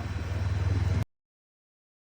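Honda CB500X parallel-twin motorcycle engine running steadily at low revs, with wind and road noise. The sound cuts off abruptly about halfway through, leaving dead silence.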